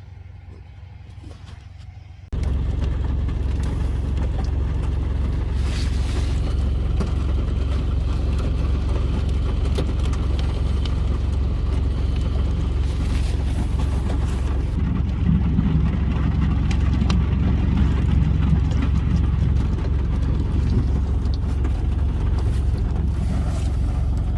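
Semi-truck's diesel engine running with a steady, loud low rumble, cutting in suddenly about two seconds in after a quiet hum.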